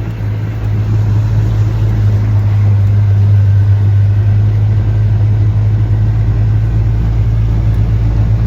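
Steady low drone of a car on the move, engine and road noise heard from inside the cabin; it grows a little louder about a second in.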